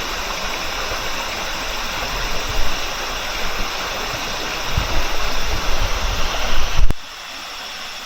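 Valley stream rushing over rocks, a steady wash of water noise with low rumbles in its second half. Just before seven seconds in it cuts off abruptly to a quieter, softer water sound.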